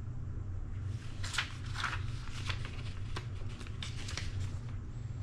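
Paper rustling as printed booklets and leaflets are handled and leafed through, in a run of short strokes starting about a second in, over a steady low hum.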